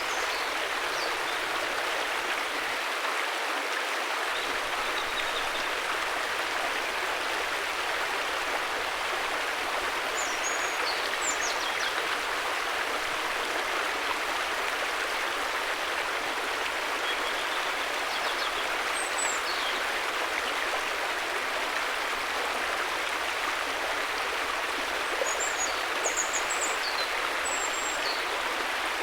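River water rushing steadily, with a few brief high chirps a third of the way in, past the middle and near the end.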